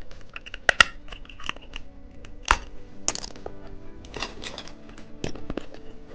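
Hard candies and their plastic packaging being handled: a string of sharp clicks and light crinkling, over faint background music.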